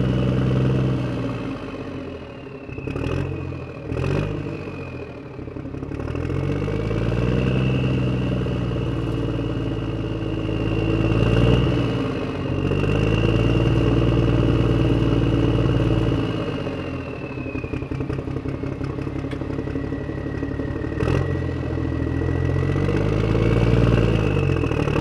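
An engine, motorcycle-like, running and being revved, its pitch dropping and climbing again several times, with a few sharp clicks in between.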